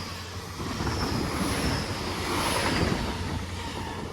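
GWR Class 802 bi-mode train passing through on diesel power: steady low engine hum under a rumble of wheels on rail that swells through the middle and eases off near the end.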